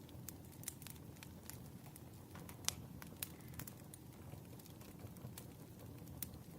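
Wood fire crackling: irregular sharp pops and snaps over a low, steady rumble, with one louder pop a little under three seconds in.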